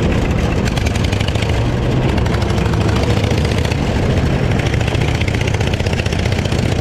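Off-road lawnmower engine running steadily, with a fast, even firing beat.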